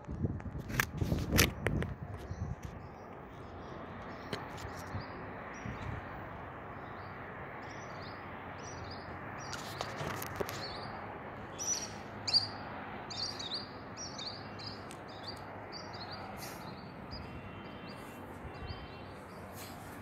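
Small birds chirping outdoors, with many short high chirps repeated in a scattered way through most of the stretch. A few sharp thumps come near the start.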